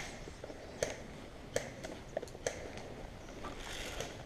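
Scattered sharp pops of airsoft guns firing a few single shots, about five spread over four seconds, over a low background rumble.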